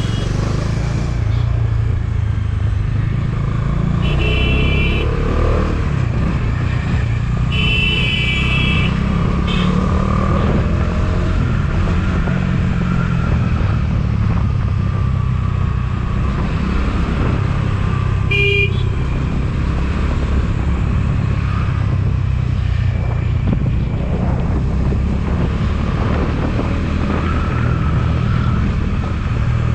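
Motorcycle running steadily along the road with a constant low rumble. A horn honks briefly about 4 seconds in, again for about a second at 8 seconds, and once more with a short toot near 18 seconds.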